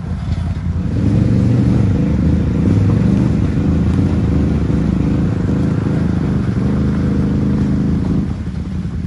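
ATV engine running under load, revving up about a second in, holding a steady pitch and easing off near the end.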